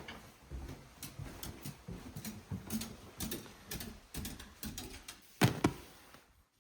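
Footsteps crunching on a forest trail, an uneven run of steps and small crackles about two or three a second. A sharper double knock comes about five and a half seconds in.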